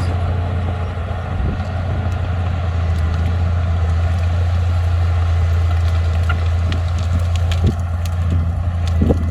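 D20P bulldozer's diesel engine running with a steady low drone, with scattered clanks and crunches of tracks and soil, a couple of sharper knocks near the end.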